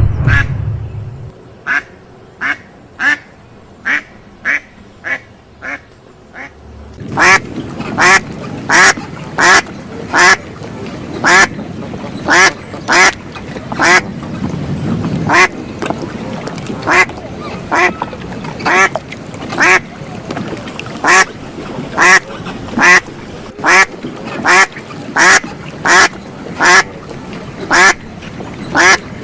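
Duck quacking over and over, a short quack roughly every half to three-quarters of a second. The quacks become much louder about seven seconds in.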